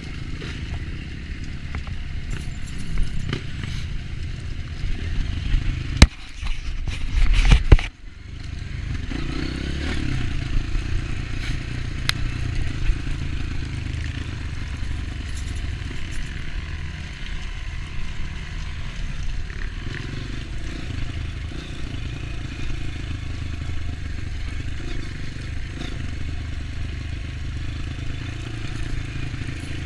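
Dirt bike engine running on a trail ride, with rattling and scraping over rough ground. A sharp knock comes about six seconds in, followed by a loud rough jolt that cuts off suddenly near eight seconds.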